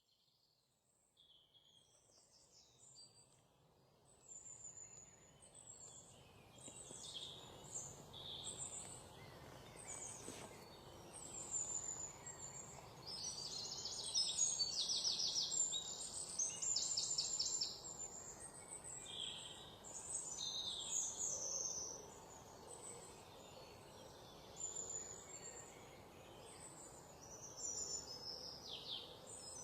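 Several wild songbirds singing and calling, with short chirps and rapid trills, fading in from silence over the first few seconds, over faint background noise.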